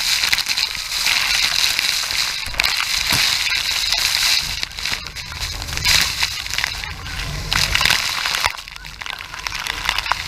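Loud rushing and splashing of water and spray from Iguazu Falls around an open tour boat, a steady roar that swells and eases every second or two.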